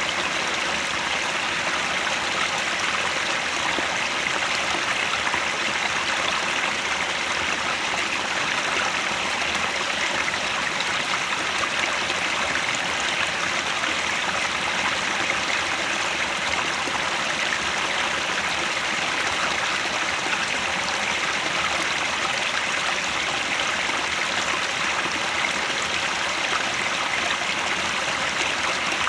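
Headwater stream running steadily: an even, unbroken rush of flowing water.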